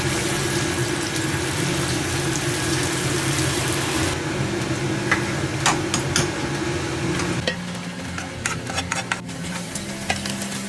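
Food sizzling and frying in a hot pan, with sharp clinks and scrapes of a utensil stirring it from about four seconds in.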